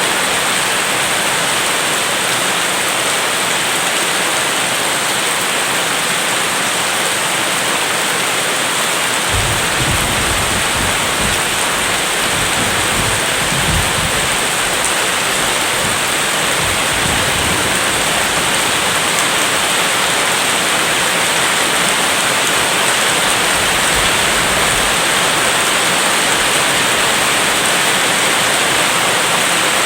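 Steady rain, an even hiss. About nine seconds in, a low rumble of thunder rolls under it for roughly ten seconds.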